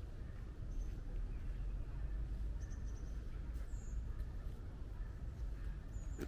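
Small birds giving a few short, high chirps, one with a quick falling note, over a steady low rumble.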